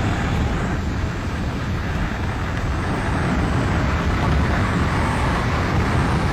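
Steady engine and wind noise of a skydiving jump plane in flight, a dense low drone without breaks.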